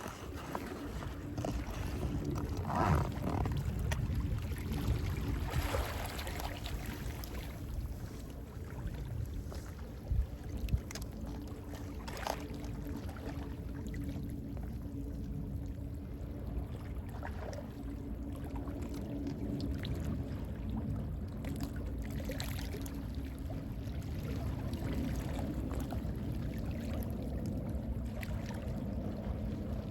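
Gentle sea waves washing in with sea wind, a steady rushing noise that swells now and then.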